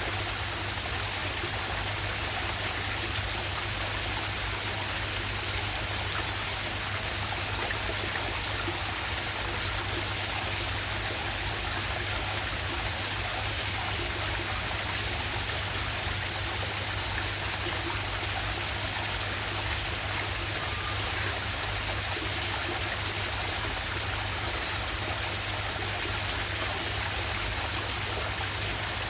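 River waterfall: water pouring and flowing in a steady, unbroken rush.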